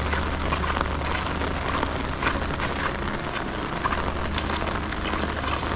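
Steady rain falling, with many small drops tapping close by, as on an umbrella held overhead, over a low steady rumble.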